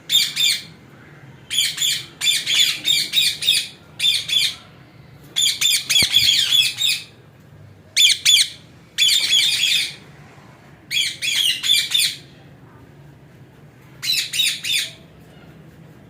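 Ring-necked parakeets squawking: about eight bouts of harsh, rapid, high-pitched calls with short pauses between them.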